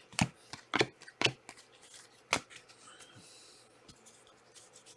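Panini Prizm trading cards being handled and slid past one another, with a handful of sharp clicks, most of them in the first half.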